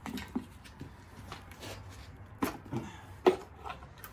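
A handful of scattered knocks and clunks, the loudest about three seconds in, as the LS1 engine's valve cover is worked loose and lifted off.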